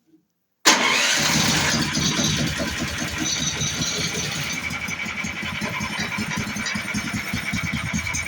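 Lifan 20 hp engine started on its battery-powered electric starter: it catches about a second in and then runs steadily with an even firing pulse.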